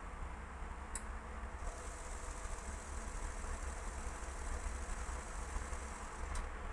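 Indesit WIL82 washing machine running on its spin cycle: a steady low rumble, joined about a second and a half in by a high, steady whine. Two faint ticks come about a second in and near the end.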